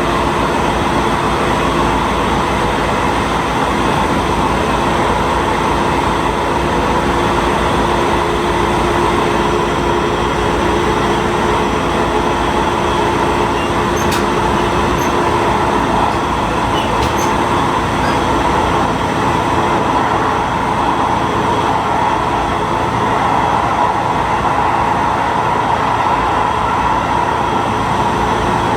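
Diesel railcar running along the line, heard from the front of the cab: a steady mix of engine drone and wheel-on-rail noise. A steady low tone fades out about halfway through, and two faint sharp clicks come a few seconds apart around the middle.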